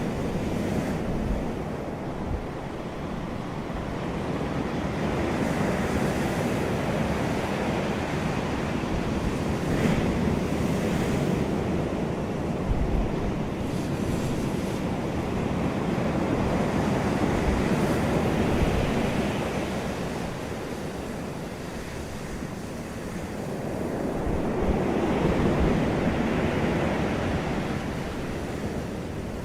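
Sea waves breaking and washing up a beach, rising and falling in slow surges every several seconds, with wind buffeting the microphone.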